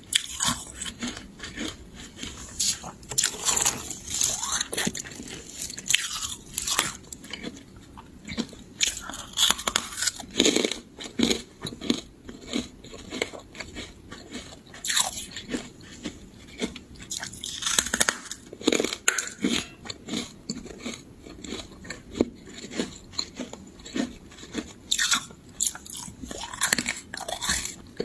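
Freezer frost being bitten and chewed close to the microphone: a dense run of irregular crisp crunches, with louder bites every few seconds.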